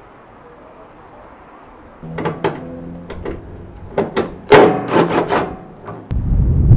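A run of irregular knocks, bumps and scrapes from objects being handled, starting about two seconds in, some with a short ringing tone. Near the end a sudden low rumble comes in, like wind on the microphone.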